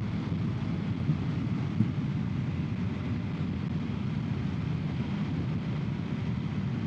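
Motorcycle on the move at a steady speed: a constant rumble of engine and wind noise.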